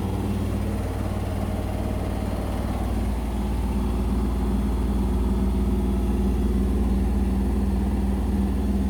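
Indesit BWE101683 washing machine spinning steadily, a low hum with a motor whine over it, running smoothly without rattling. The low hum shifts and grows a little about three seconds in.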